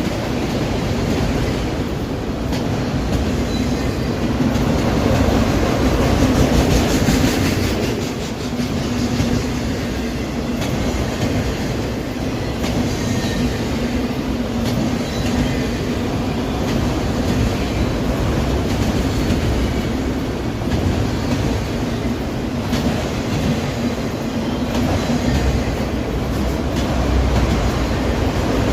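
Empty autorack freight cars rolling steadily past, their wheels clicking over rail joints, with a steady low hum running underneath.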